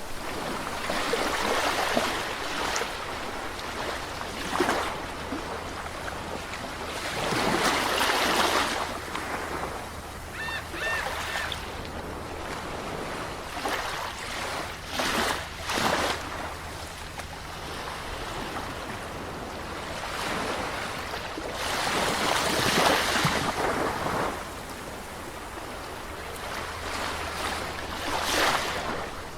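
Sea waves washing onto a shore, rising and falling in surges every few seconds. The biggest surges come about eight and twenty-three seconds in.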